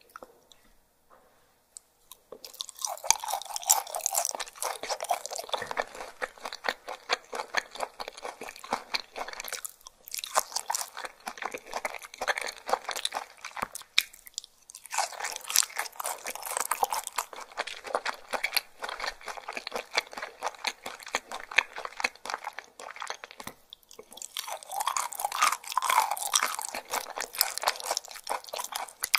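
A person chewing slices of skin-on raw fish close to the microphone, a dense run of quick moist clicks. It starts after about two seconds of near quiet and breaks off briefly a few times between mouthfuls.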